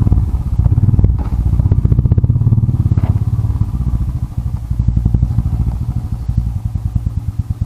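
Motorcycle engine running at idle with an even firing beat, a little louder for a couple of seconds about one second in before settling back.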